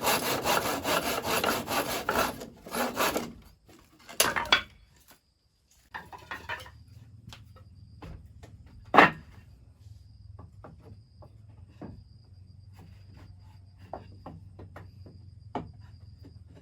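Saw cutting through wood in quick, even strokes for about three seconds. After a short pause come scattered light knocks on wood, one sharp and loud knock near the middle, over a faint steady high whine.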